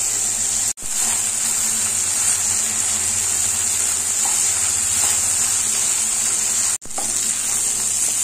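Basmati rice and mixed vegetables sizzling in a nonstick kadai as a wooden spatula stirs them. It is a steady frying hiss that cuts out for an instant twice.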